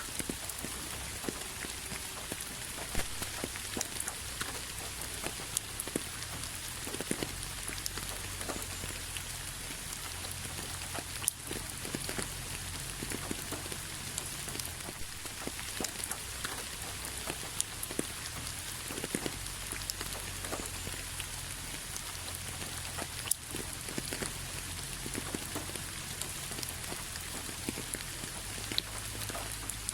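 Steady rain falling on a hard surface, an even hiss with scattered sharp drips and splats on top, over a low rumble.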